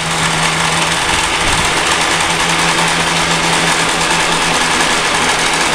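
An engine running steadily at an unchanging speed, a loud, even noise with a constant low hum.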